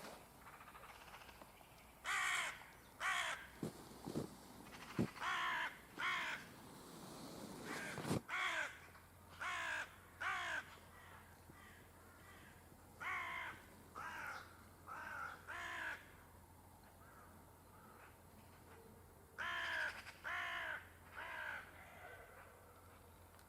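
A crow cawing over and over, harsh calls in short runs of two to four with pauses between the runs. A few sharp clicks in the first eight seconds, and a faint low hum from about a third of the way in.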